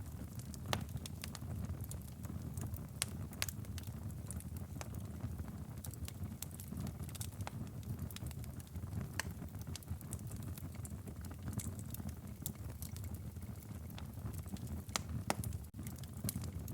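Wood fire crackling in a fireplace: a steady low rumble of burning, with sharp pops scattered irregularly through it, a few louder ones near the start and near the end. The sound drops out for a split second near the end.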